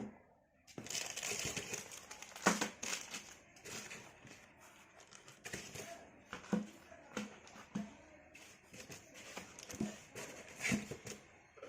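Irregular clicks, knocks and rustling, typical of engine parts and hand tools being handled on a workbench.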